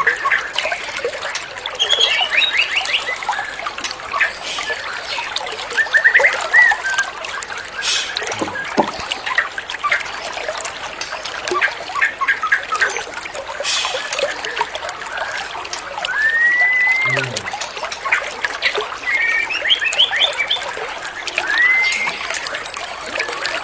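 White-rumped shama singing: short arched whistles and quick trilled phrases, scattered over steady trickling water.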